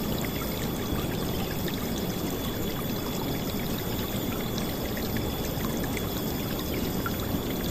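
River water flowing, a steady loud rush with small splashes throughout.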